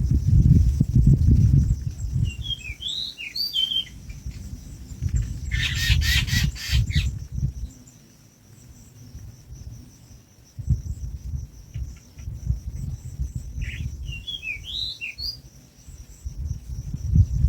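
Two short runs of quick, high bird chirps, a few seconds in and again near the end, over a loud low rumble that swells and fades. A brief harsh rasping noise comes between them.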